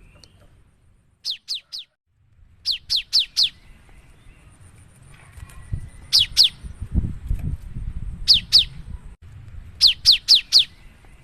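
Cinereous tit (gelatik batu) singing: quick runs of two to four sharp, falling whistled notes, repeated several times with short pauses between runs. A faint low rumble lies underneath, swelling about halfway through.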